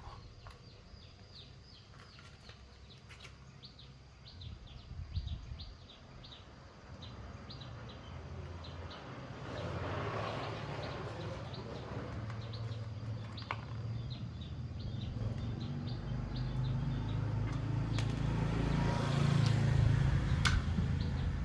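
Small birds chirping in quick repeated short notes over a low rumble, which swells about halfway through and again near the end, where it is loudest.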